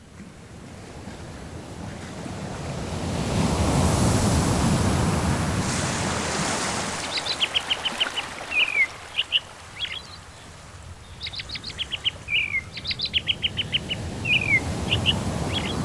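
Surf washing in, swelling to a peak about four seconds in and then easing off. From about halfway, a bird calls over it again and again: quick series of short high chirps alternating with single falling whistled notes.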